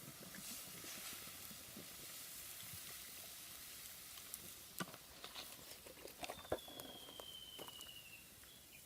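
Wood bonfire crackling: a soft hiss with scattered sharp pops, two louder ones past the middle. A thin whistle falls slowly in pitch for about two seconds near the end.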